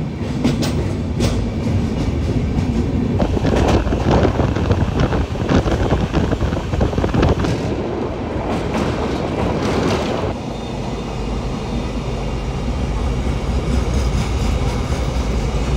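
Humsafar Express train running at speed, heard from inside the coach: a steady rumble of the wheels on the rails with irregular clacks as they cross rail joints, thinning out after about ten seconds.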